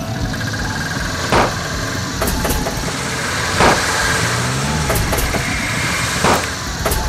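Audi estate car's engine running rough with three loud bangs about two and a half seconds apart, the car smoking from underneath: the sound of a failing engine, which a bystander takes for a seized engine.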